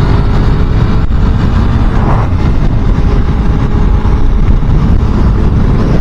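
Motorcycle on the move: heavy, steady wind rush on the microphone with the engine running underneath.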